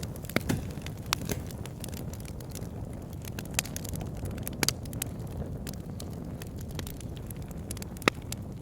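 Wood fire burning in a log burner: a steady low rumble of flames with irregular crackles and pops from the logs, one sharp pop the loudest, near the end.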